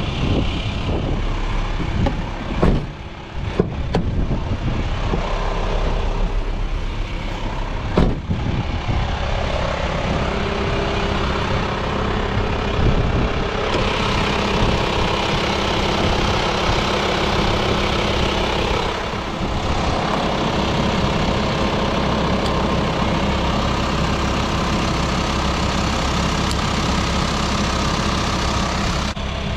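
A few sharp clunks in the first several seconds, then a van engine idling steadily. It runs louder and brighter for a few seconds around the middle.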